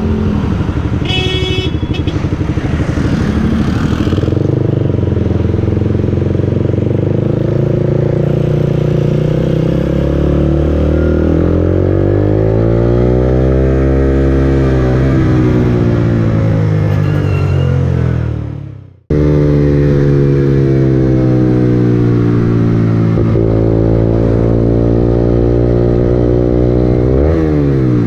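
Suzuki GSX-R150's single-cylinder engine under way, its pitch climbing and dropping as the bike accelerates, shifts and slows. A little past halfway the sound fades out and then cuts back in suddenly, and near the end the pitch drops sharply at a gear change.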